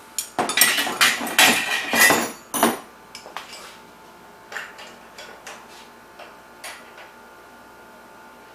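Small metal bicycle hub parts clattering and clinking against each other as the hub is taken apart: a dense rattle for the first couple of seconds, then a scatter of lighter single clicks.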